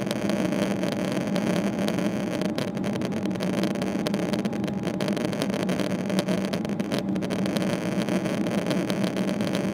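Steady cabin noise inside a Boeing 777-300ER airliner: the GE90 jet engines and airflow make an even, unchanging rumble with a hum underneath.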